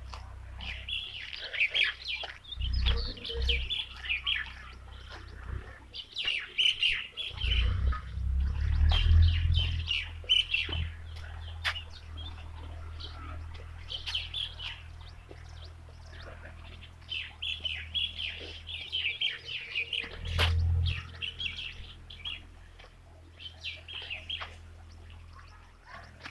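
Birds chirping in repeated bursts of quick, high calls, with a few low rumbles on the microphone.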